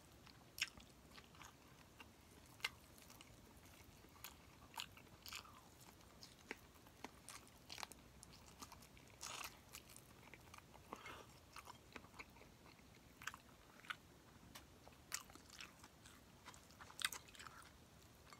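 A person chewing a hand-eaten mouthful of rice, boiled greens and roast chicken: quiet, scattered short smacks and crunches, a few a second at most, with pauses between.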